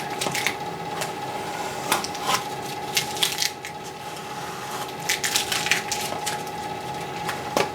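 Vinyl stencil and its paper backing being handled and rubbed down onto an aircraft wing: scattered short crinkles and scrapes, over a steady faint hum.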